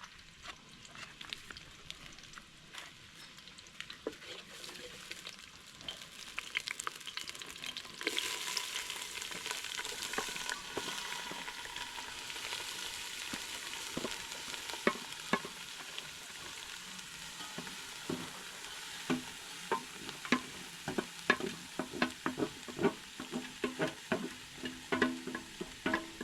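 Food frying in a cooking pot: a steady sizzle starts suddenly about a third of the way in. Throughout, there are clicks, knocks and scrapes of stirring against the pot, coming thicker near the end.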